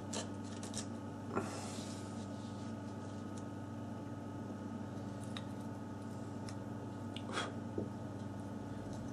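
A few light clicks and rustles from small phone parts and tools being handled as a smartphone is put back together, over a steady electrical hum.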